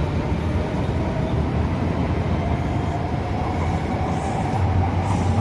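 SMRT C751B metro train pulling away, with a steady rumble of wheels on the track and a faint electric whine that rises slowly in pitch as it gathers speed.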